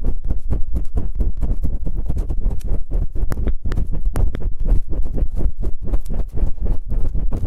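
Fast scraping and rubbing on the ears of a binaural microphone, ASMR ear-cleaning style: a dense run of rapid scratchy strokes, many a second, muffled and deep.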